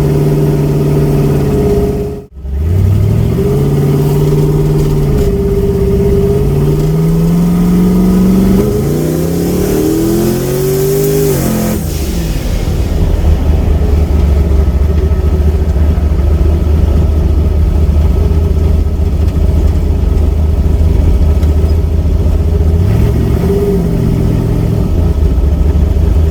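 A car engine revving up hard several times, its pitch climbing and falling back, with a brief break about two seconds in. It then settles to a steady low running drone for the second half, with one short rev blip near the end.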